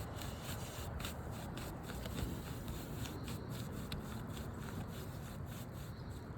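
Repeated rubbing strokes of a hand or brush sweeping across asphalt roof shingles to clear them off.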